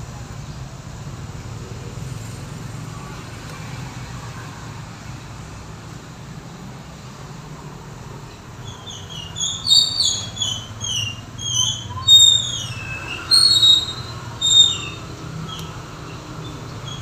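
Steady low hum of outdoor background noise. About halfway through comes a run of short, high-pitched squeaky chirps, some sliding downward in pitch, which are the loudest sounds.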